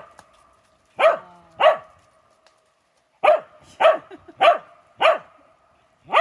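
A Welsh corgi barking. There are two barks about a second in, then after a pause a run of four barks evenly spaced about half a second apart, and one more at the very end.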